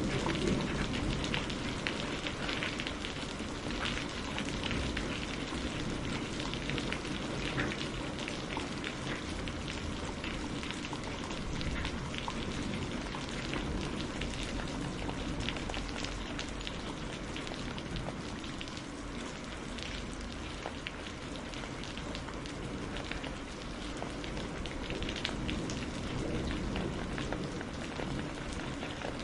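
Steady rain falling, with scattered sharp ticks and pops from rain drops and a crackling wood fire.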